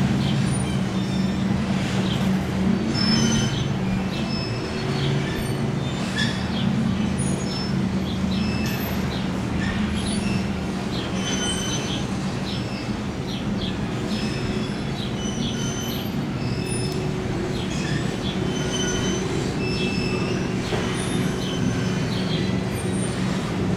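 Powerboat engines running with a steady low drone, with many short high squeaks or chirps scattered over it.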